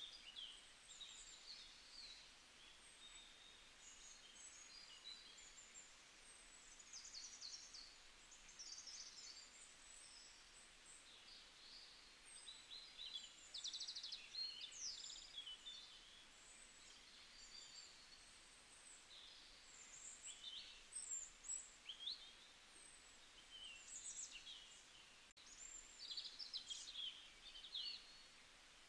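Faint birdsong: many short high chirps and quick trills, scattered irregularly over a soft steady hiss.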